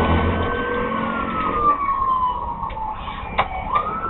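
Police car siren wailing: a steady high tone that slowly falls in pitch, then sweeps back up near the end, over the low rumble of the moving vehicle. A sharp click sounds shortly before the rise.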